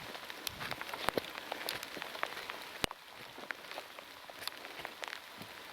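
Heavy rain falling, a steady hiss with many sharp close drop ticks scattered through it, one louder tick about three seconds in.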